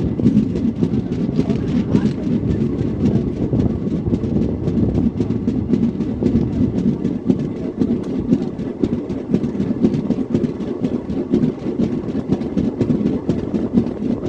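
Train running along the track: a steady rumble of wheels on rails, with a constant stream of small clicks.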